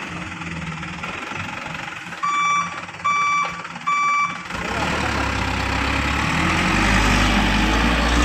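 Heavy vehicle engine running, with three short, evenly spaced beeps about two seconds in, like a reversing alarm. About five seconds in, a heavier engine rumble comes in and grows louder.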